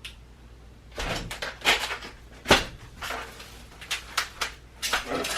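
Packaged groceries being handled and set down on a surface: rustling and a series of knocks, the sharpest about two and a half seconds in.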